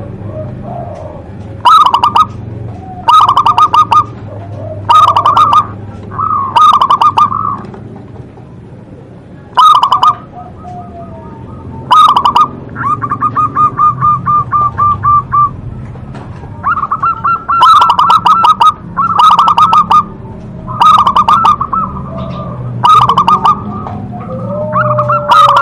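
Zebra dove (perkutut) singing: loud, repeated phrases of rapid trilled coos, each about a second long, coming every one to two seconds, with one longer run of evenly pulsed notes about halfway through.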